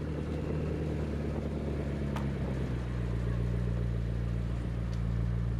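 McLaren MP4-12C's twin-turbo V8 idling steadily, with a faint click about two seconds in.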